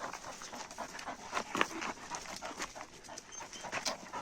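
Dogs panting, with scattered short clicks and scuffs.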